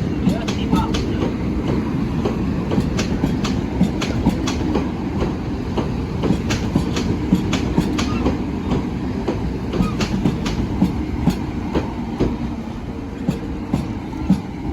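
Southeastern Class 395 Javelin electric train running past, a steady rumble with its wheels clicking repeatedly over the rail joints, easing off slightly near the end.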